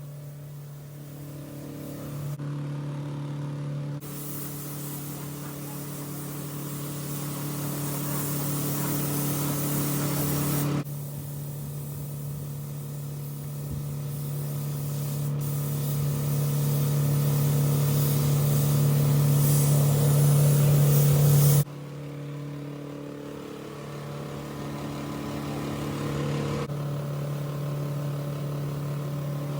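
Steady machine hum with a hiss of air over it, typical of a body shop's paint spray booth and compressor. It is heard in several pieces that cut in and out abruptly, the hiss swelling louder within each piece.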